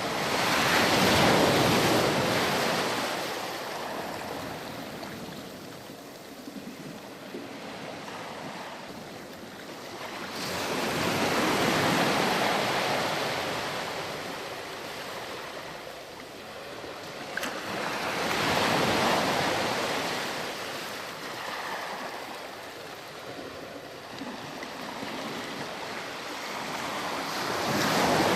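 Ocean surf: waves breaking and washing in, rising and falling in slow surges about every eight to ten seconds, four swells in all.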